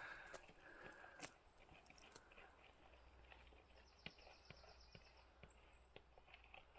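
Near silence: outdoor quiet with scattered faint clicks and ticks, and a faint, rapid high trill near the middle.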